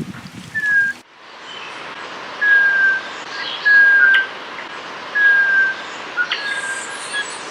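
Golden-browed chlorophonia call whistled by a person in imitation: single plaintive, slightly falling notes, five in all, each about half a second long and spaced a second or more apart.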